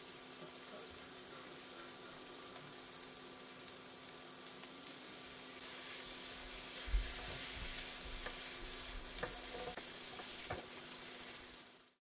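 Broccoli, carrots and zucchini frying in a hot pan, a steady sizzle. About halfway through they are stirred with a wooden spatula, which brings a thump and a few light knocks against the pan.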